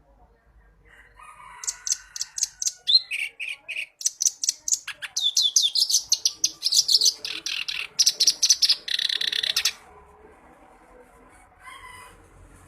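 Kerak basi (reed warbler) singing: a long run of harsh, rapid, repeated high notes in phrases that keep changing pitch. It stops abruptly about two-thirds through, with one short burst near the end.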